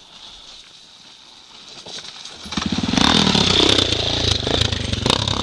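Dirt bike engine coming in loud about halfway through and running on steadily, with scattered clattering knocks.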